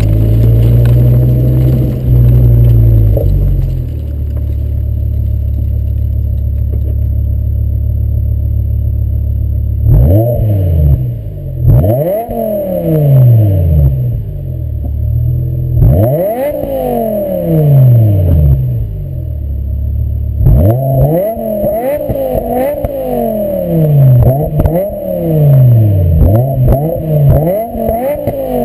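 BMW M6 engine through its stock exhaust, settling from a raised idle to a steady idle, then revved again and again. From about ten seconds in, each throttle blip rises and falls back. The blips come in quick succession over the last third.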